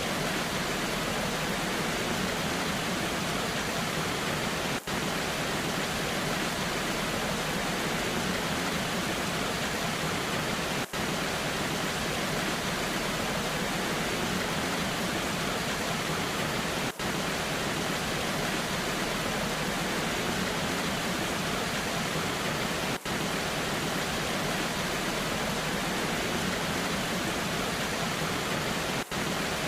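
Waterfall in the rain: a steady, even rushing of falling water, with a very brief dip in level about every six seconds.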